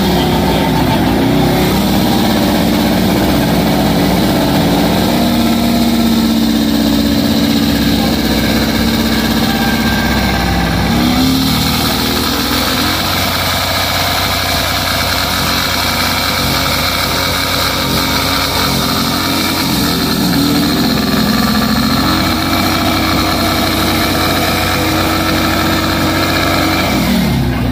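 Motorcycle engine held at high revs during a burnout, its rear tyre spinning in place. The revs sag and climb back twice, about ten and twenty seconds in.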